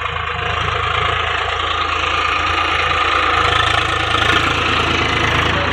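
Swaraj 735 XT tractor's diesel engine running steadily while it pulls a cultivator, with a fast low chugging pulse. It grows a little louder over the first few seconds.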